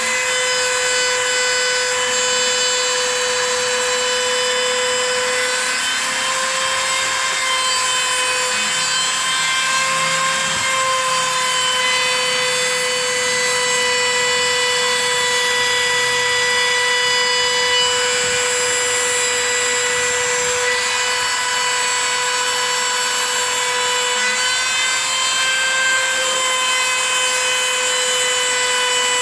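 Wood CNC router spindle running with a steady high whine while its bit carves 18 mm plywood, the pitch wavering slightly as it cuts.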